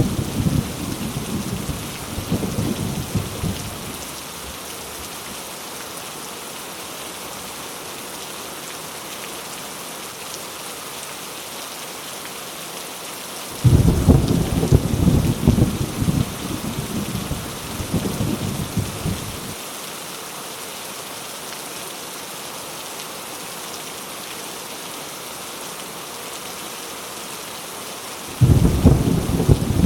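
Heavy rain falling steadily, with thunder rumbling over it. A rumble fades out in the first few seconds, a loud one begins suddenly about 14 seconds in and lasts about six seconds, and another begins near the end.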